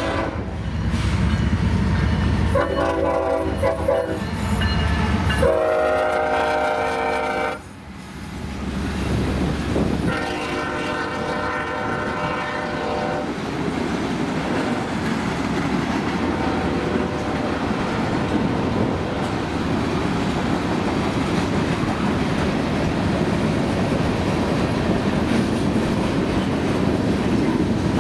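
Freight locomotive's air horn sounding a series of blasts, the longest and loudest in the middle. After that the train rolls past with a steady rumble and the wheels clacking over rail joints.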